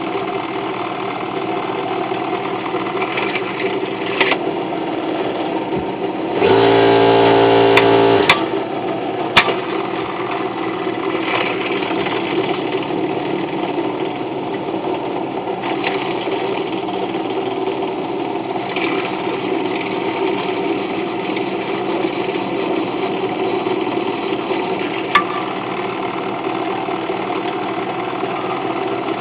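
A power tool running steadily as a brass piece is sanded and shaped. About six seconds in, a louder motor hum lasts for roughly two seconds, and a few sharp clicks from handling the work stand out over the hum.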